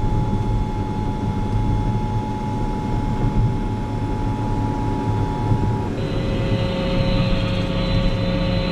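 Steady low engine drone of a vehicle. About six seconds in, two faint steady tones stop and a hiss with a faint hum comes in over the drone.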